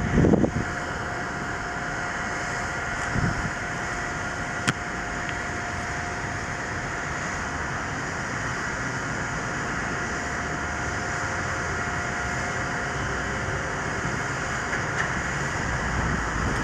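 Jet airliner engines running: a steady rushing noise with a faint steady whine. A few brief knocks come near the start.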